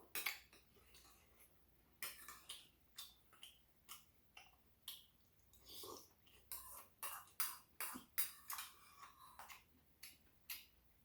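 A person eating rice cake ramen close to the microphone: a string of short, irregular wet chewing clicks and mouth smacks, thickest in the middle stretch.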